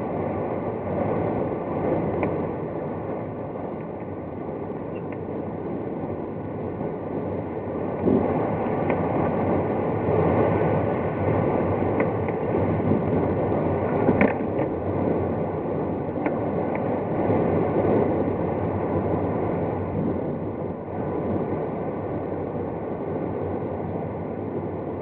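Steady rush of air over a glider cockpit in flight, with a few small clicks and knocks scattered through it.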